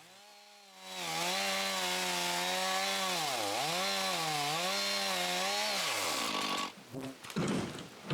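Two-stroke chainsaw run at high throttle cutting through a log. The engine note sags three times as the chain takes load in the wood, then cuts off after about six seconds.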